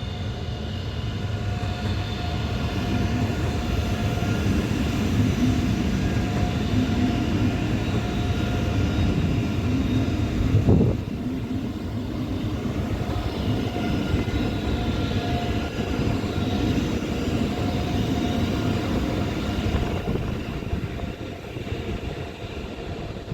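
A train running through the station: a steady rumble of wheels on rail with a few steady humming tones. The sound swells, then eases toward the end, with one sharp knock about eleven seconds in.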